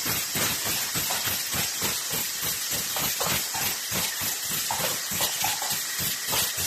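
Aerosol can production line machinery running: a steady pneumatic air hiss over rapid, regular clattering of the mechanism and cans, several knocks a second.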